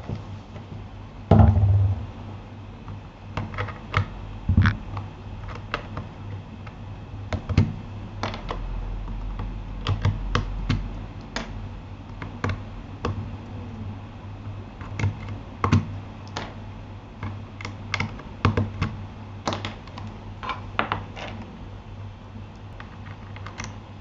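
Keys being typed on a Keychron K8 mechanical keyboard fitted with Gateron Aliaz silent switches: irregular, unhurried keystrokes with gaps between them, and one heavier thump about a second in.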